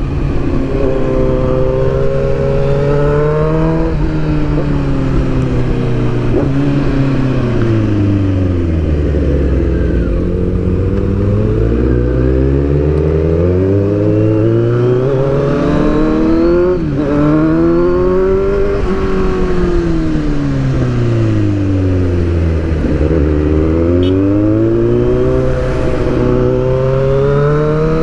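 Sport motorcycle engine riding through bends: the revs climb, sink slowly to a low note about ten seconds in, climb again, dip once more a little past twenty seconds and rise toward the end, over steady wind rush.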